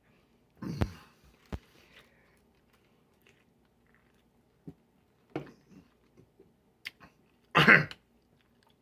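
A person chewing and biting a mouthful of tough chicken wrap, with scattered wet mouth noises and small clicks. A short cough near the end.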